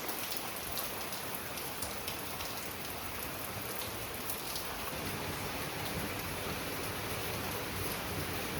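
Heavy typhoon rain falling steadily: an even hiss with faint scattered drop ticks.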